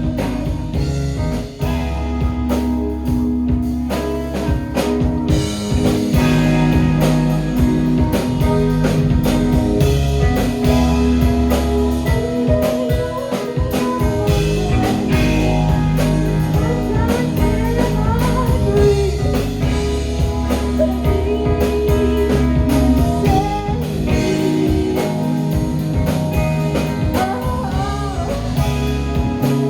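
Live rock band playing: guitar over sustained bass notes and a drum kit keeping a steady beat.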